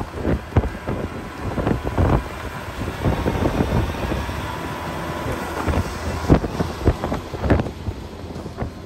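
Blizzard wind buffeting the microphone in irregular hard gusts, over a steady background rush.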